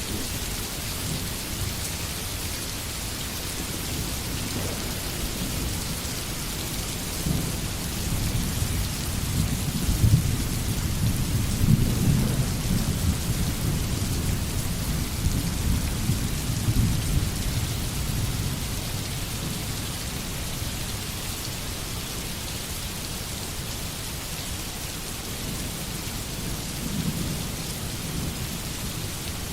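Steady rain falling through a forest, with a low roll of thunder that builds about a quarter of the way in, is loudest near the middle, and fades away, then a softer rumble near the end.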